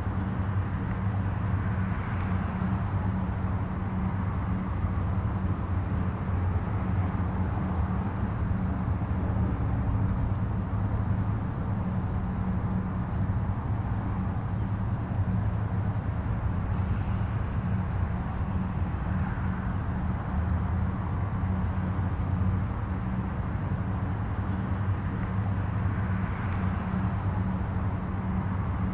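Distant highway traffic: a steady low rumble of tyres and engines, swelling gently every few seconds as individual vehicles pass.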